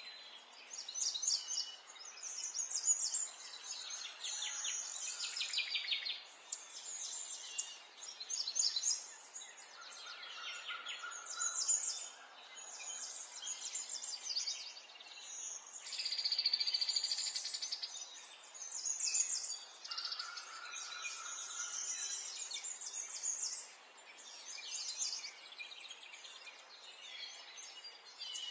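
Birds chirping and trilling in quick, overlapping phrases over a soft steady hiss, with a few brief held whistles mixed in.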